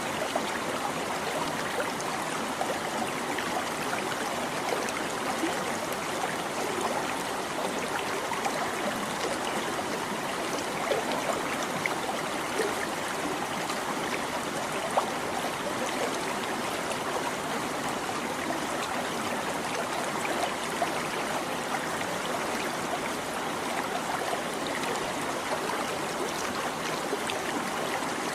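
Small stream babbling and trickling over stones, a steady rushing with many small splashes and gurgles.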